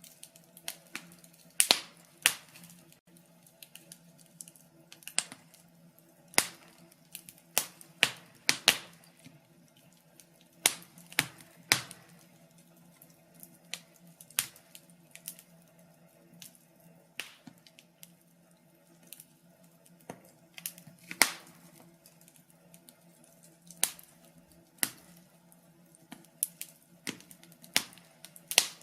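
Fireplace fire crackling: irregular sharp pops and snaps, roughly one a second at uneven spacing, over a faint steady low hum.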